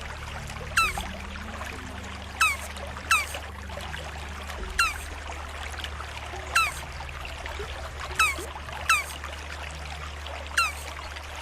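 Turtle giving eight short, high, downward-sliding chirps at uneven intervals of about one to two seconds. Water trickles and a low hum run underneath.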